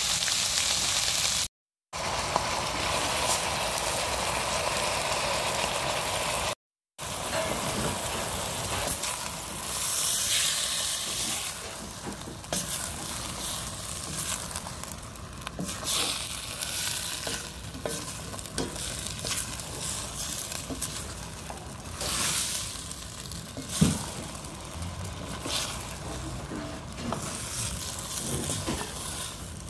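Diced potatoes and peas sizzling in a stainless steel pot, then stirred with a wooden spatula. The sizzle is loudest and steady at first, with two brief dropouts to silence. It then settles to a softer sizzle broken by scrapes and knocks against the pot, the sharpest knock about two-thirds of the way through.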